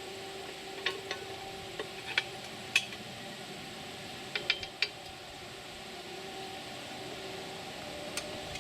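Scattered sharp metal clinks and knocks of steel crane parts, pins and bolts being handled and fitted together, some coming in quick pairs.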